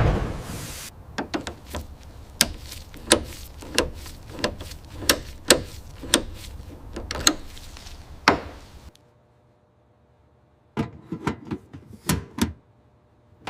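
A series of sharp, irregular knocks and clicks, about one or two a second, over a low hum; it stops, then a shorter cluster of clicks follows.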